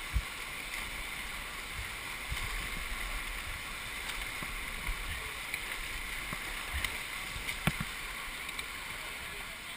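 Steady rush of river water around a whitewater raft, with a few sharp knocks, the loudest about three-quarters of the way through.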